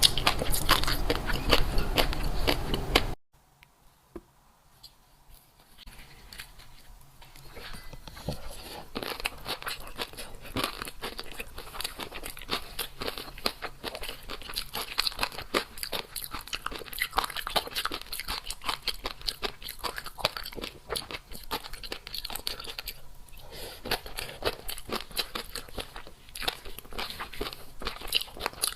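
Close-miked eating sounds: a person chewing and crunching crisp food, with a dense run of small crackly clicks. Loud for about the first three seconds, then cut off abruptly to near silence, with the chewing and crunching coming back softer a few seconds later.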